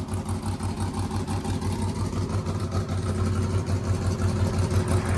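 Limousine engine running steadily, with a low, even rumble.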